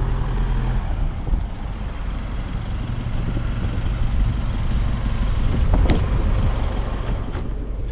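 Isuzu V-Cross pickup driving: a steady engine and road rumble, with a couple of short sharp clicks near the end.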